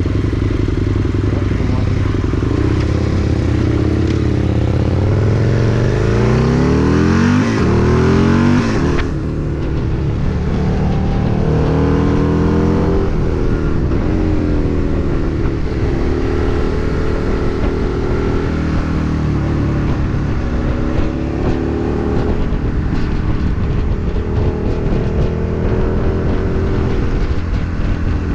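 Husqvarna Nuda 900's parallel-twin engine heard from onboard, revving up and down through the gears: the pitch climbs steeply, then falls sharply about nine seconds in and climbs again several more times. A steady high hiss runs under the engine and cuts off at that same drop.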